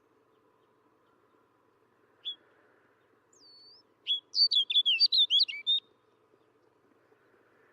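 Snow bunting singing: a single short high note, then about two seconds later a quick warbled phrase of about ten rapid high notes lasting under two seconds. A faint steady background noise lies under it.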